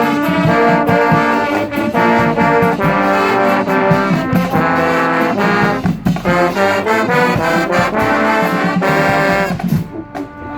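Marching band playing, with brass and drums sounding together; the band cuts off near the end.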